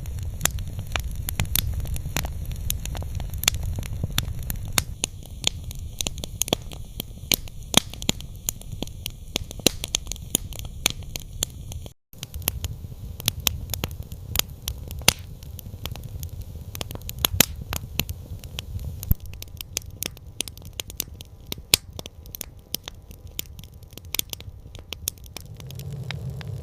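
Campfire crackling: irregular sharp pops and snaps over a steady low rumble. The sound cuts out for an instant about twelve seconds in, then resumes.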